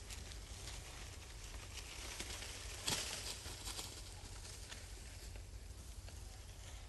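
Light rustling and crackling, with a sharper crack about three seconds in.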